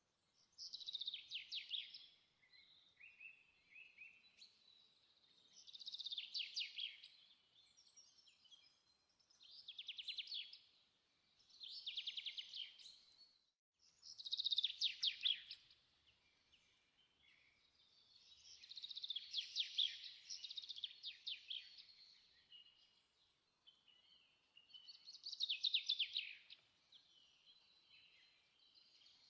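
A songbird singing: short trilled phrases of fast, falling notes, repeated every few seconds.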